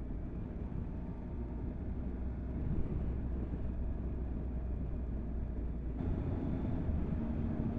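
Motorcycle engine running on the road with wind and road noise, heard from a bike-mounted camera; the engine note changes about six seconds in.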